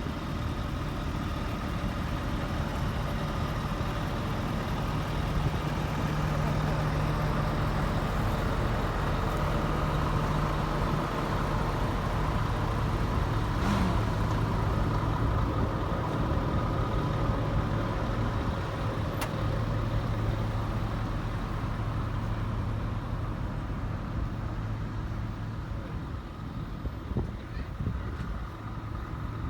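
Heavy truck diesel engine running steadily, its engine note shifting lower about halfway through.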